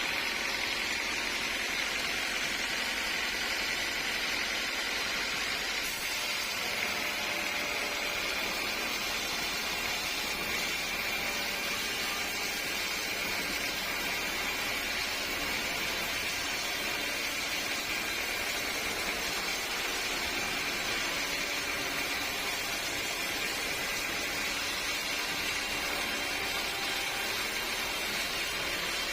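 Sawmill machinery running steadily: an even, unbroken whirring hiss with no separate cuts or knocks.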